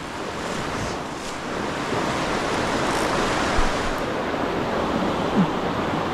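Steady rushing of river current, with a single dull thump about three and a half seconds in.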